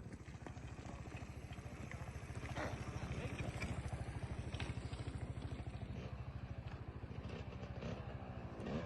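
Yamaha YZ motocross bike's engine running at a steady idle with an even fast pulse, growing a little louder about a third of the way in. A brief rev begins right at the end.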